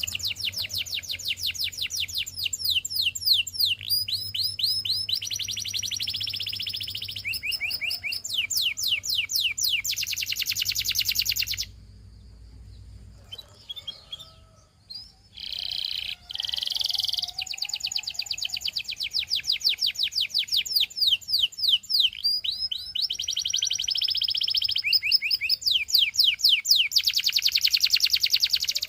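Domestic canary singing: long rolling trills of rapidly repeated high notes, switching from one trill pattern to the next every second or two. The song breaks off for a few seconds about midway, then resumes.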